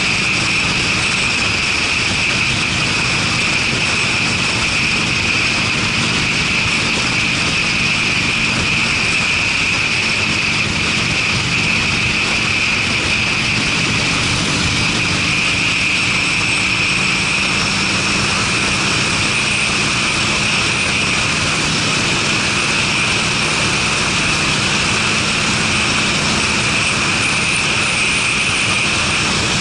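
Harley-Davidson Sportster's air-cooled V-twin with Screamin' Eagle mufflers, running at a steady cruise under a constant rush of noise, with no revving or gear changes.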